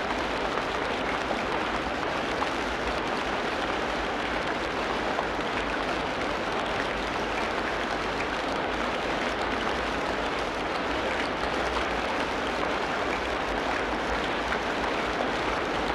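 Steady heavy rain in a tropical rainforest: a dense, even patter of countless drops that keeps an unchanging level.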